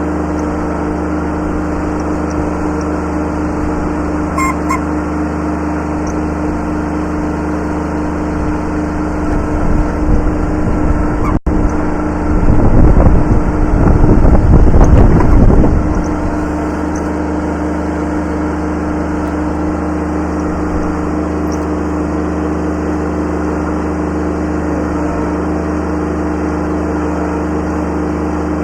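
Kubota B7100 subcompact tractor's three-cylinder diesel engine running steadily at a fixed speed. In the middle it gets louder and rougher for several seconds, with a momentary dropout just before the loudest part.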